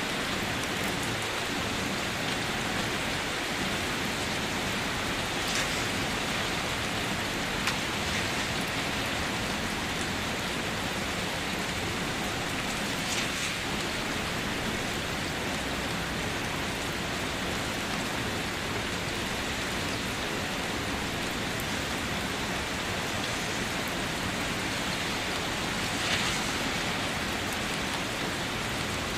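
Steady rain falling, an even hiss with now and then a louder drop or splash.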